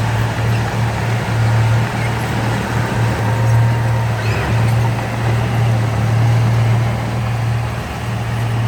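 Heavy diesel engine of earthmoving machinery running steadily under load, a deep constant drone.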